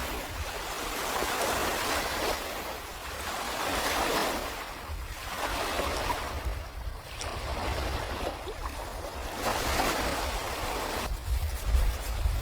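Waves washing onto the shore, a rushing surf that swells and fades every few seconds.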